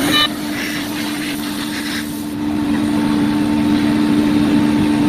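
Woodworking CNC router running, a steady machine drone with two constant hum pitches under a hissing noise that is busier in the first two seconds.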